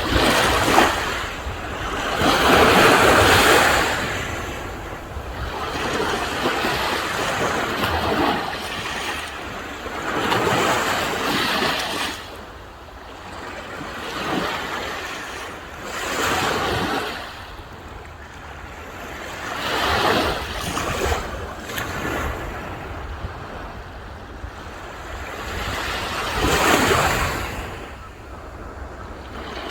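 Sea waves breaking and washing up the shore, the hiss of surf swelling and fading every four to six seconds, over a steady low rumble.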